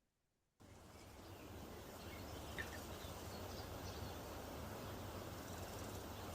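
Steady background noise that cuts in abruptly from dead silence about half a second in, with a faint short chirp partway through.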